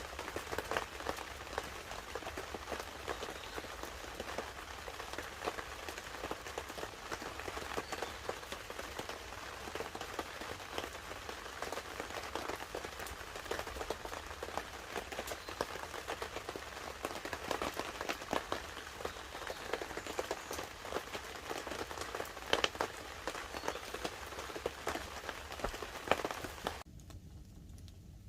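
Light rain pattering on a camp tarp, mixed with the crackle of a wood fire: a dense, steady run of small ticks and pops. About 27 seconds in it drops suddenly to a much quieter background with only a few scattered crackles.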